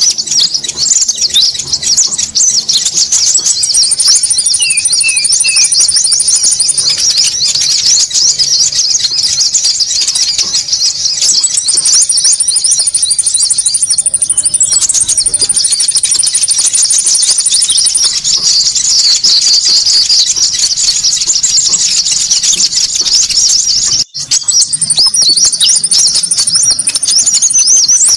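Bird lure recording of small birds chattering noisily, with many rapid high chirps overlapping and repeated thin high trills laid over them. There is a brief break about 24 seconds in, where the loop is cut.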